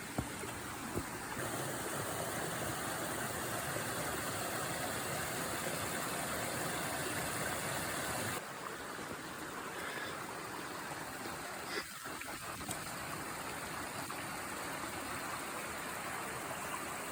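Stream water rushing steadily, a little louder from about a second and a half in until about eight seconds in.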